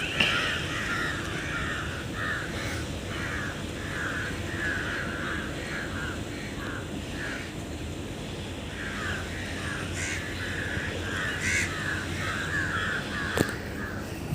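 Birds calling in a rapid series of short, harsh calls, pausing for a couple of seconds midway, over a steady low background rumble. A single sharp click near the end.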